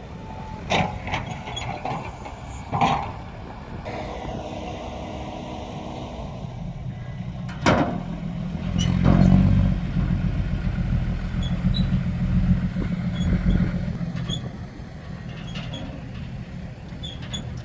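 Heavy diesel machinery running: a few sharp knocks in the first half, then a steady low engine rumble that swells about nine seconds in and runs on.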